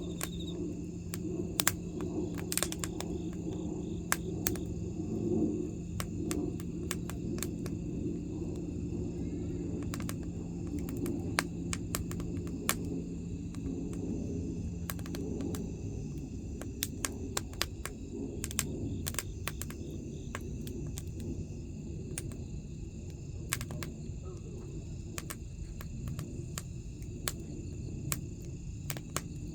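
Burning wood crackling and popping: irregular sharp snaps over a steady low rush of flame. A low hum drops out about halfway through.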